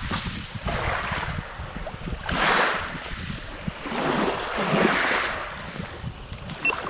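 Sea water sloshing and splashing in uneven surges, with wind buffeting the microphone.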